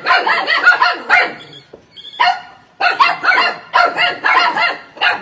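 A dog barking rapidly and repeatedly, with a pause of about a second before the barking starts again.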